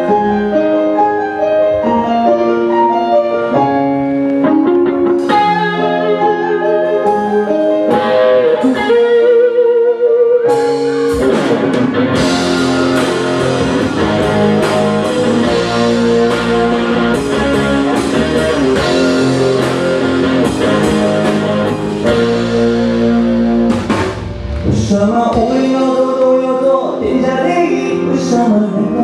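Live band music. Held melodic notes over chords open it, then drums and the full band come in about ten seconds in, with a short drop in fullness near 24 seconds before the band picks up again.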